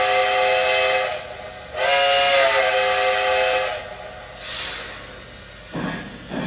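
A Lionel Legacy Hudson model locomotive's sound system blowing its multi-tone steam whistle in two long blasts, then a brief steam hiss.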